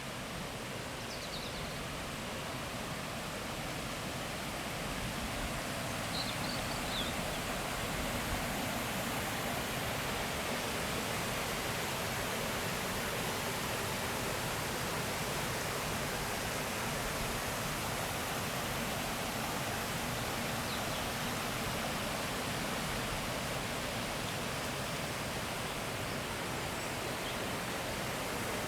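Rushing water of a forest stream, a steady rush that grows a little louder over the first few seconds and then holds. A few faint high bird chirps come through about a second in and again around six to seven seconds in.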